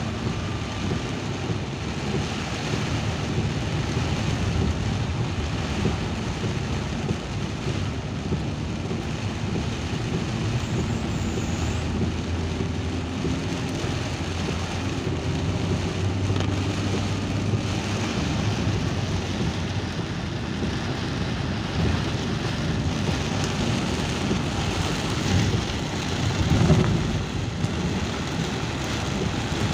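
Steady hiss of rain over a low rumble of a vehicle on the move, with a brief louder low rumble near the end.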